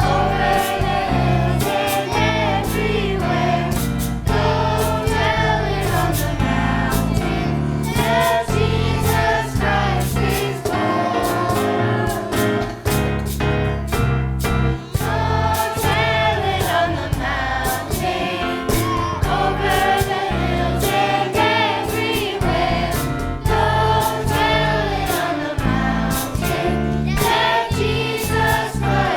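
A choir singing over a full band with a steady beat.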